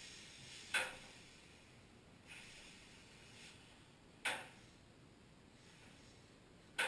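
Sharp clicks or knocks: three loud ones about two and a half to three and a half seconds apart, with a fainter one between the first two, over a faint steady hiss.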